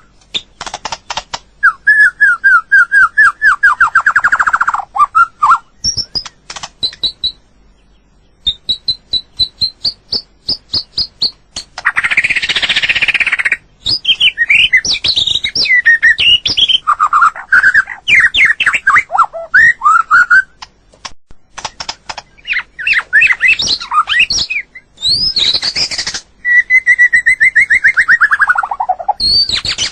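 White-rumped shama singing a varied run of whistled phrases, fast trills and sharp clicks, some phrases sliding down in pitch. A noisy, scratchy burst comes a little before halfway.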